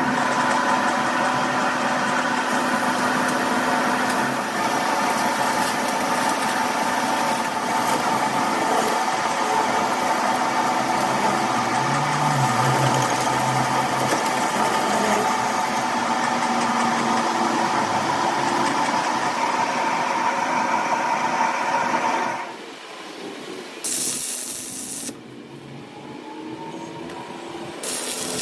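A machine running steadily with a constant whine, stopping about 22 seconds in. After that come two short bursts of hissing.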